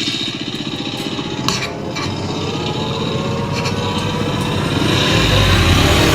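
Kawasaki KX250F dirt bike's single-cylinder four-stroke engine running with a fast, even firing beat, the revs and loudness rising gradually.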